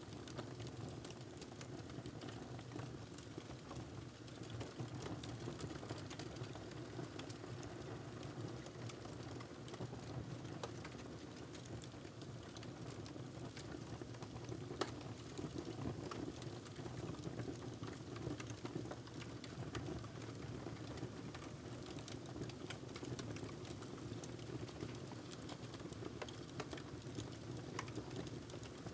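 Wood fire in a fireplace crackling steadily with many small irregular snaps over a steady low background, and one sharper pop about halfway through.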